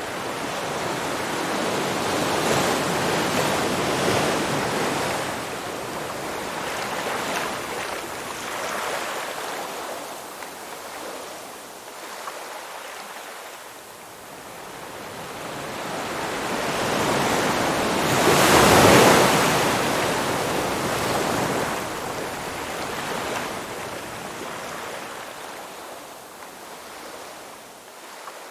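Ocean waves washing ashore in slow surges, each swell rising and falling back over several seconds. The biggest wave breaks about two-thirds of the way through.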